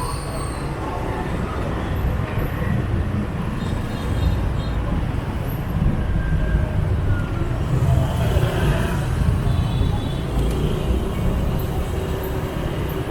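Street traffic heard from a riding motorbike: a steady low rumble of motorbike engines and road noise, swelling somewhat about eight seconds in.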